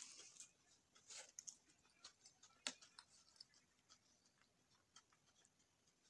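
Faint eating sounds: mouth clicks and wet chewing, with scattered small ticks and one sharp click about two and a half seconds in.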